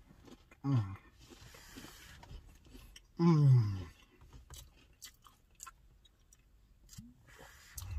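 A man biting into and chewing an Oreo cookie, with small crunching clicks scattered through the chewing. Twice he makes a wordless vocal sound, the second, about three seconds in, the loudest and falling in pitch.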